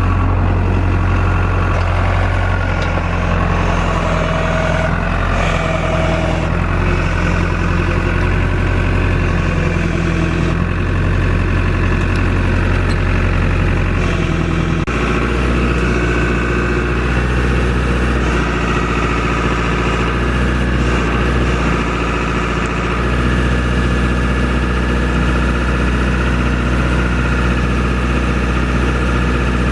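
Tractor engine running steadily. About halfway through, its note changes abruptly to a lower, steady pitch.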